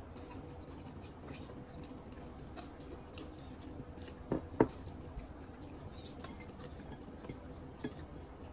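Chewing and wet mouth sounds from eating fried chicken, with small clicks as the meat is pulled apart by hand. Two sharp clicks about halfway through are the loudest sounds.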